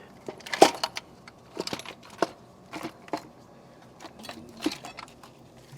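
Irregular clicks and light knocks as the lower intake manifold is lowered onto the engine and worked into place, with the sharpest knock about half a second in.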